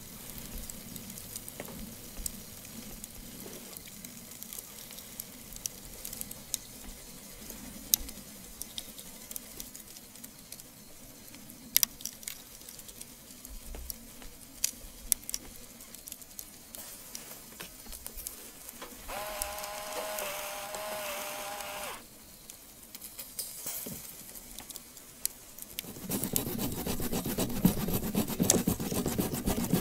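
Soft sizzling and crackling with scattered sharp pops from beef grilling over a wood fire. A steady pitched tone sounds for about three seconds around two-thirds of the way in, and near the end a louder rasping, scraping noise sets in.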